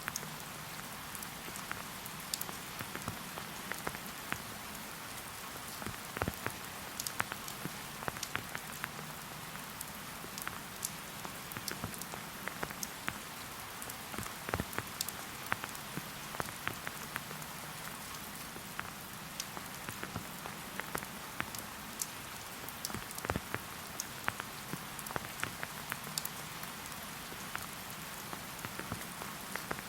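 Steady rain, an even hiss with many single drops ticking sharply at irregular moments.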